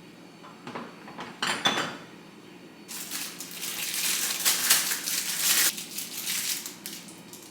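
Household items being handled: a couple of clattering knocks, then a few seconds of crinkling, crackling rustle.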